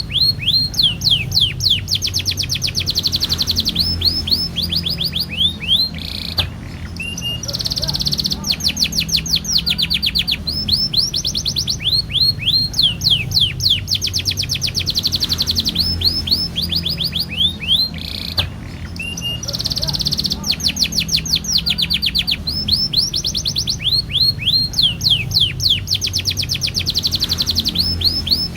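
Domestic canary singing a long, fast song of rapid trills and quick downward-sweeping notes, with two brief breaks, over a low steady hum.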